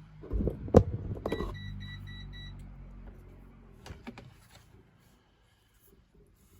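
Knocks and a sharp click, then a quick run of about five short electronic beeps at one pitch from the control panel of a Beko DTKCE90021W condenser tumble dryer, followed by a couple of light clicks.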